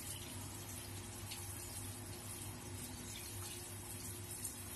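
Steady hiss of water falling like rain onto an outdoor landscape light fixture, with faint drop ticks and a low steady hum underneath.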